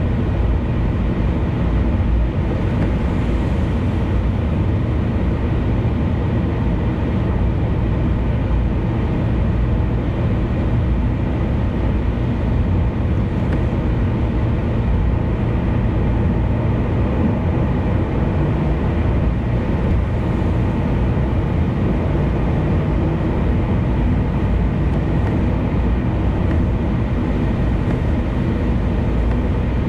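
A car cruising on an expressway: steady tyre and road rumble with engine noise, unchanging throughout.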